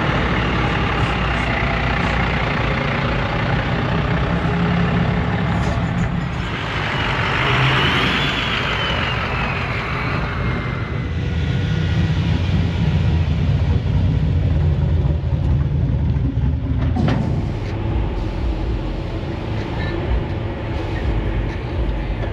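Heavy truck engines running with a steady low rumble. About six seconds in, a hiss with a rising-then-falling whistle lasts some five seconds, and a single sharp click comes near the end.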